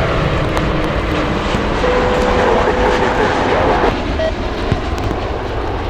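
Jet airliner engines, a loud steady rushing noise with a steady hum in the middle, dropping a little after about four seconds.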